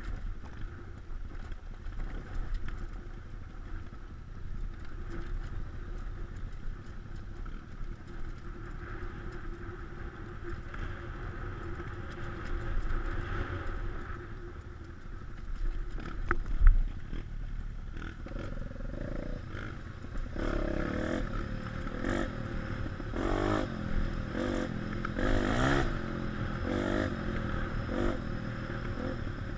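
Off-road motorcycle engine running under a steady low rumble, with a single sharp knock partway through. In the last third the engine revs up and down repeatedly.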